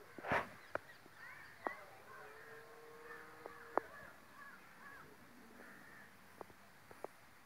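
Faint bird calls, a run of short chirping calls, with scattered sharp clicks and one louder knock just after the start.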